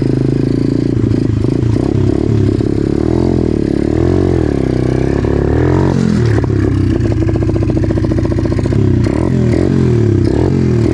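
Tao Tao DB-17 dirt bike engine running under way, its revs rising and falling as the throttle is worked, with some mechanical clatter.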